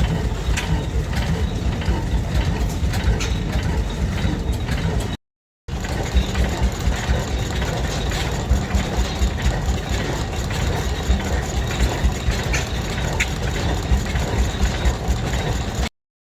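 An old engine running steadily, its exhaust pulsing in a quick, even beat with a knocking edge. The sound drops out completely twice for about half a second.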